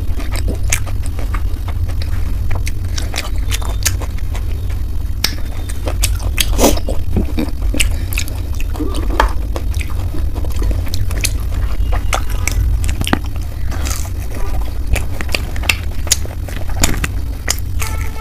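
A person biting and chewing fried momos and jalebi close to the microphone: irregular sharp clicks and smacks of eating. A steady low hum runs underneath.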